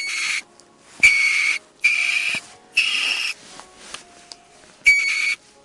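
Ferret giving five short, breathy, high-pitched squeaks, each about half a second long, the last after a longer pause.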